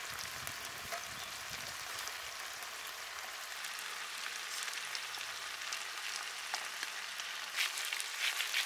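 Taro ajillo sizzling in hot olive oil in a pan: a steady crackling hiss that becomes louder and more spattery near the end.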